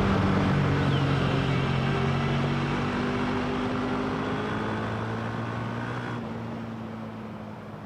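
Motorcycle engine running at a steady pace and fading away gradually; the upper hiss drops out abruptly about six seconds in.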